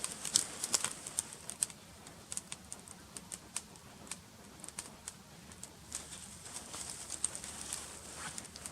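Small campfire crackling: irregular sharp pops and ticks over a faint hiss, densest in the first second or so.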